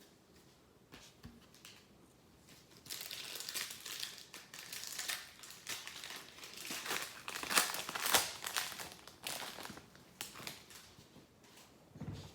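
Foil wrapper of an Upper Deck hockey card pack being torn open and crinkled by hand, a run of crackling that starts about three seconds in and dies away near the end.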